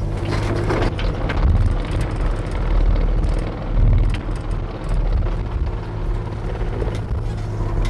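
Excavator's diesel engine running steadily, its level rising and falling as it works, with scattered snaps and knocks over it as brush and branches are cleared.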